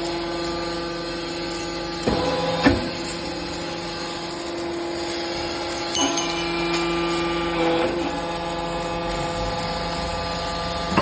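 Hydraulic scrap metal baler running: a steady hum from its hydraulic pump and motor, broken by a few metallic clunks, the sharpest about two and a half seconds in.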